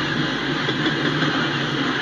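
Norfolk Southern coal train's hopper cars rolling by: a steady, even noise with a low hum underneath.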